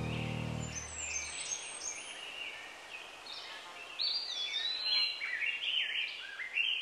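Birds singing: a run of quick chirps and whistled notes that slide up and down in pitch, getting busier about four seconds in. The tail of a music track fades out in the first second.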